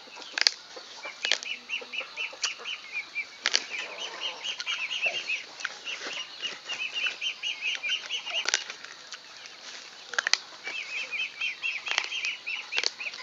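Crisp bites and crunches into a raw ear of fresh corn, one sharp crunch every second or few. Behind them a bird chirps about four times a second, pausing briefly past the middle.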